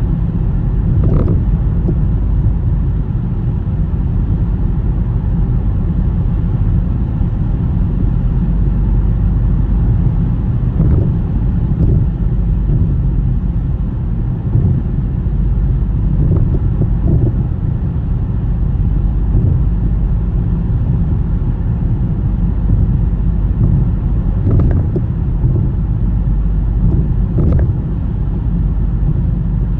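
Car driving, a steady low rumble of road and engine noise, with a few brief knocks scattered through it.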